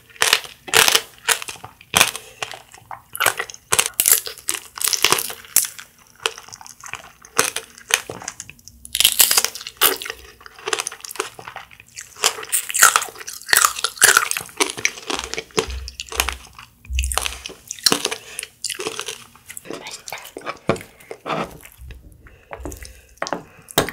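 Close-up crunching and chewing of strawberry tanghulu: the hard, glassy sugar shell cracking between the teeth in many sharp crunches, with wet chewing of the fruit between them. The crunching thins out near the end.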